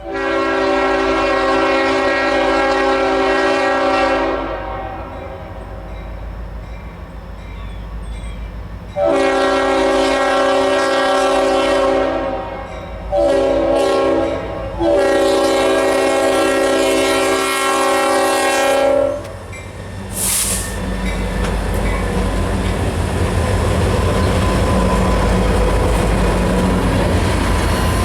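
Norfolk Southern diesel locomotive's air horn sounding the grade-crossing signal: two long blasts, one short and one long. From about 20 seconds in, the train passes close by, with a steady rumble and the clack of wheels on the rails.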